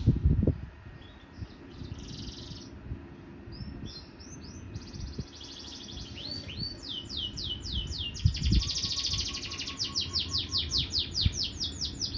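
Domestic canary singing: varied trills and, in the second half, a long fast run of repeated downward-sweeping notes, several a second. The bird is coming back into song after its moult. A loud low thump just after the start and another about eight seconds in.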